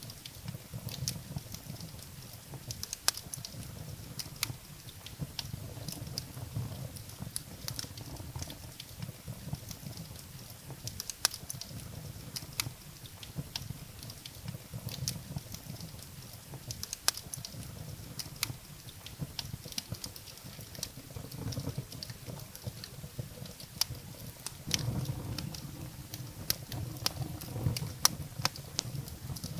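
Firewood burning in a fireplace: irregular sharp crackles and pops over a low rushing of the flames, which swells for a few seconds late on.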